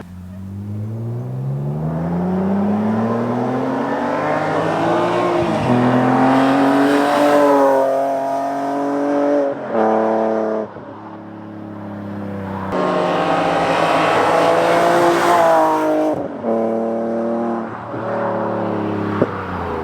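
BMW M3 with a titanium exhaust accelerating hard through the gears. The exhaust note climbs in long pulls and breaks off and drops at each upshift, several times over.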